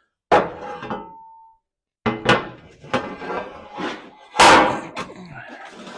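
Metal knocks and clanks from steel parts being worked: one sharp knock that rings briefly, then a run of irregular knocks and clatter, the loudest near the end.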